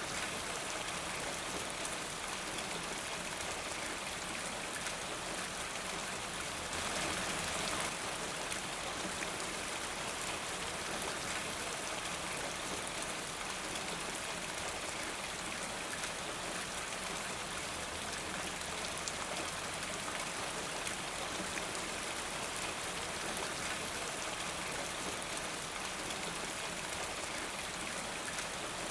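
Steady rain falling with a fine patter of drops, swelling slightly louder for about a second around seven seconds in.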